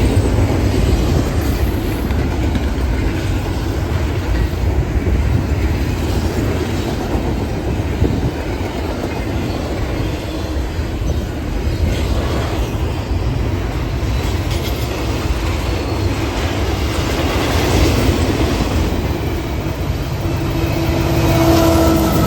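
Train passing close by: the rail cars rumble and clatter steadily over the track. About 20 seconds in, a few short steady tones join the noise.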